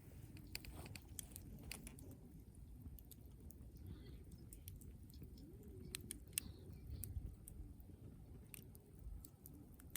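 Wood campfire crackling faintly, with scattered small sharp pops at irregular intervals over a low steady rumble.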